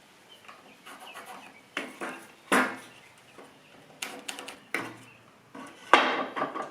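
Knocks and clatters of a wooden root blank and small tools being handled on a workbench: about five separate hits with a short ring after each, the loudest near the end.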